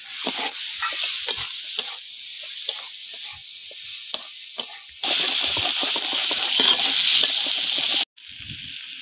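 Potatoes, onion and garlic sizzling in oil in an aluminium wok, stirred with a metal spatula that scrapes and clicks against the pan. The sizzle gets louder about five seconds in and drops off abruptly near the end.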